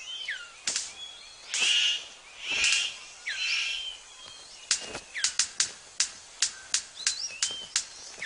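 Male superb bird of paradise in courtship display: harsh calls with whistled notes and sharp snaps, then from about halfway a steady run of sharp clicks, about three a second.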